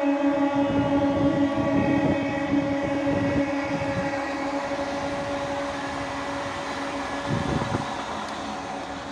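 A train horn held in one long steady note over the rumble and wheel clatter of an electric multiple unit local train running past on the track; the horn and the train slowly fade.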